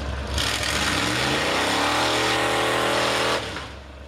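Ford 460 big-block V8 with open headers revving hard in a mud truck: the engine note climbs for about a second, is held at high revs, then cuts off suddenly as the throttle is let off near the end.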